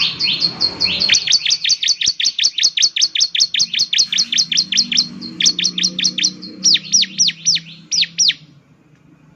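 Bar-winged prinia (ciblek) singing a fast series of sharp, high chips, about seven a second. It changes to a few longer down-slurred notes and stops about eight and a half seconds in.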